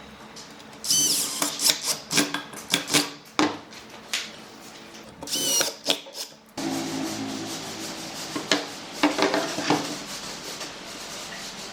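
Tool work on wood: irregular knocks and clicks mixed with rubbing and scraping, and two short high squeals, one about a second in and one near the middle. The sound changes abruptly a little past halfway.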